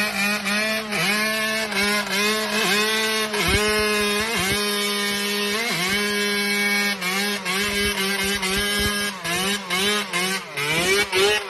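Motorcycle engine running under throttle. Its pitch dips and climbs back about every half second at first, holds steady for a few seconds in the middle, then wavers and blips again near the end.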